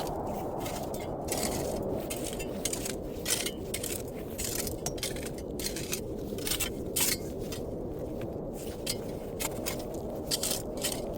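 Steady wind noise, with many irregular sharp crackles and scrapes over it.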